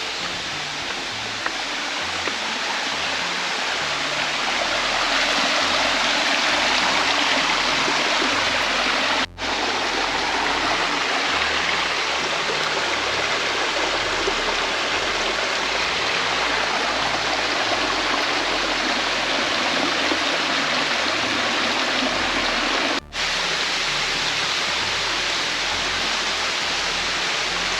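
Steady rush of flowing water from a forest stream, broken by two brief dropouts.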